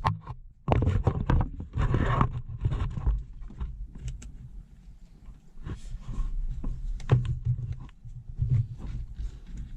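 Irregular knocks, clunks and scrapes of an air-conditioning cooling fan motor assembly being worked into a cramped spot and catching against the radiator pipe and a shaft.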